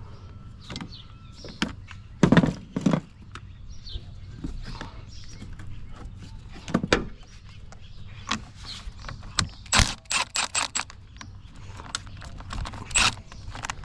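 Hand work on a truck: scattered knocks and clicks of parts and tools being handled, with two loud knocks early on and a quick run of about seven clicks midway.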